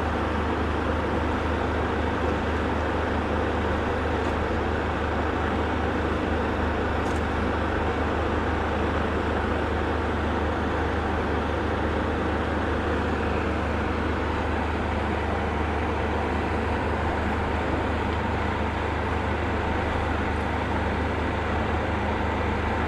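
Steady low rumble of a demolition excavator's diesel engine running, mixed with road traffic noise, with no clear impacts.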